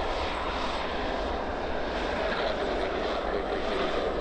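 Jet airliner's engines running, a steady rushing noise.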